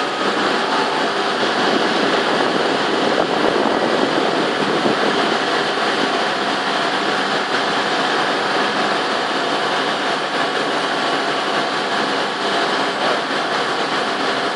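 Steady mechanical running noise of heavy machinery, an even loud din with faint steady tones through it.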